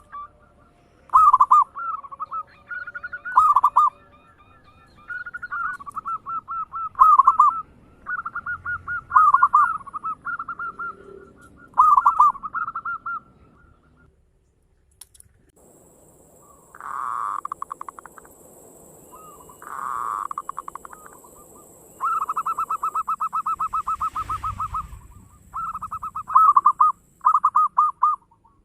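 Zebra dove (perkutut) singing: phrase after phrase of rapid, stuttering coos. There is a short break just after halfway, after which a faint steady hiss sits under the calls.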